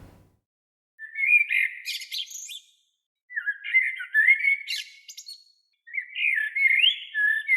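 A songbird chirping and calling in three separate bursts of about two seconds each, made of quick chirps and slurred whistled notes.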